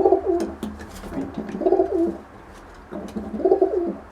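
Racing pigeon cooing in a loft, three coos about a second and a half apart, with faint clicks between them.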